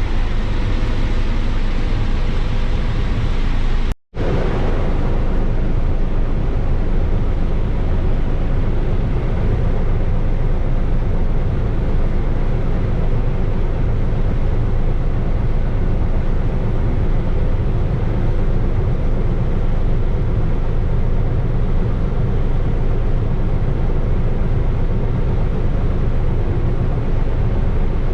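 Combine running steadily while harvesting corn: a loud, even machine drone. It breaks off for an instant about four seconds in, then carries on unchanged.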